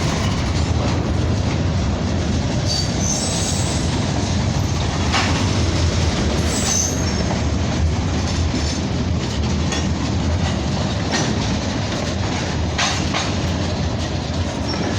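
CN freight train's cars rolling past with a loud, steady rumble and wheel clatter. Brief high wheel squeals cut through a few times, along with occasional short clanks.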